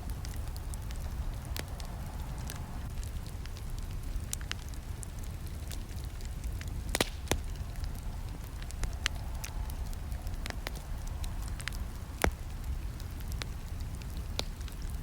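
Campfire burning, with a steady low rumble of flames and irregular sharp crackles and pops; the loudest snaps come about seven seconds in and again near twelve seconds.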